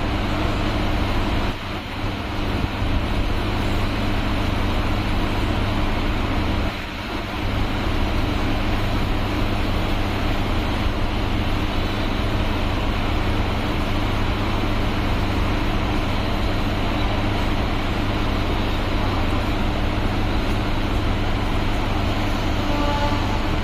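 Electric suburban train running, heard as a steady loud rumble of wheels and track with a low, even motor hum. The noise dips briefly twice, about a second and a half in and again around seven seconds.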